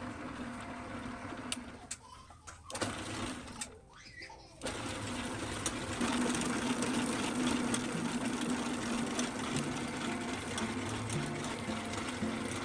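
Small electric motor of a restored cream mixer / egg whisk machine being test-run: it cuts out and restarts in the first few seconds, then runs steadily with an even hum from about four and a half seconds in.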